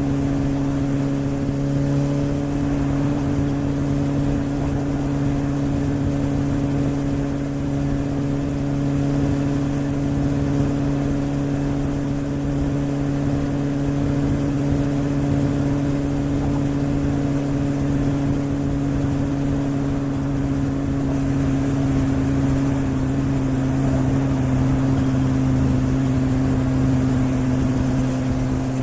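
Suzuki GSR750's inline-four engine through a Yoshimura aftermarket exhaust, running at steady revs under way, its note easing slightly lower in the last several seconds.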